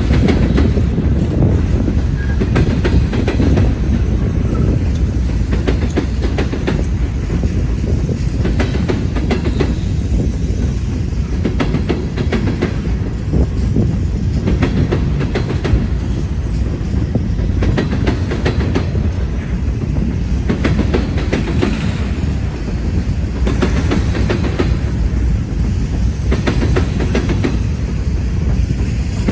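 Norfolk Southern freight train rolling past: a steady low rumble of the cars, with wheels clicking over rail joints.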